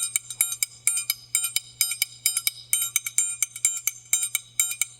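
Triangle played in the quadrilha groove: a steady run of bright metallic strikes, about four a second, some left ringing and others cut short by the damping hand.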